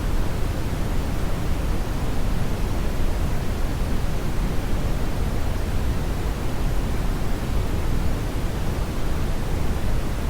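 Synthetic brown noise: a steady, deep rumbling hiss, strongest in the bass and weak in the treble, with no change or events.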